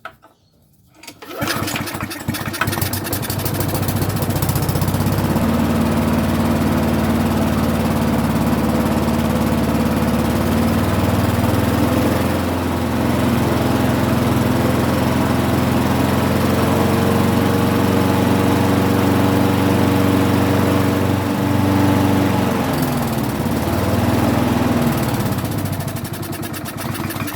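Briggs & Stratton 450 series lawnmower engine starting about a second in and then running steadily, its speed dipping and recovering a few times, during a test run while the revs are being set at the governor spring.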